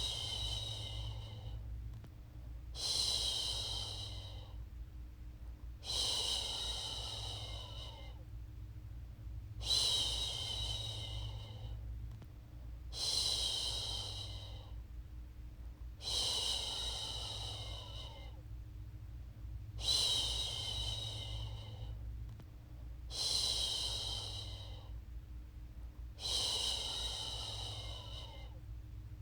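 A woman's voice making long soothing "shhh" sounds to lull a baby to sleep, about one every three seconds, each starting strong and fading away, nine in all. A low steady rumble runs underneath.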